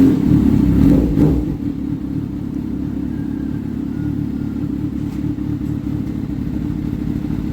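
Kawasaki ZX-6R inline-four engine running through an SC-Project slip-on exhaust, louder for about the first second and a half, then settling to a steady idle.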